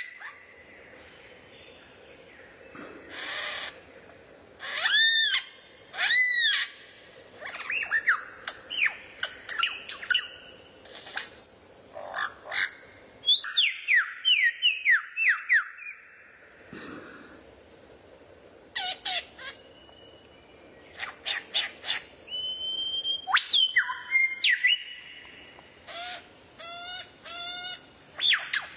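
Songbird singing varied phrases: loud arching whistles, runs of quick down-slurred chirps, a held high note, and fast repeated notes near the end, with short pauses between phrases.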